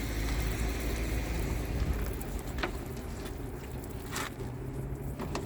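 Soapy water being sprayed onto a car through a hose, a steady hiss that thins out about three seconds in, over a low outdoor rumble with a few small clicks.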